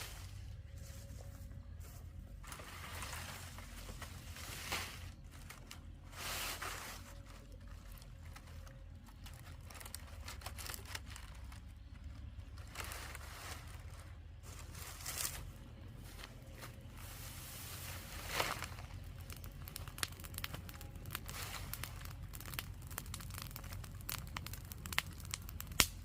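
Irregular rustling, crunching and tearing of dry material being handled, in short uneven strokes with a few sharper ones, over a steady low hum.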